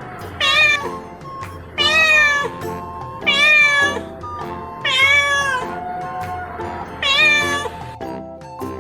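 Domestic cat meowing five times, about every one and a half seconds. Each meow rises and then falls in pitch.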